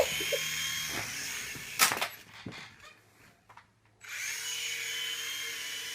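Small electric motor and rotors of a toy remote-control helicopter whining, with a sharp knock about two seconds in. The whine then dies away to near quiet and starts up again about four seconds in, as the battery is running flat.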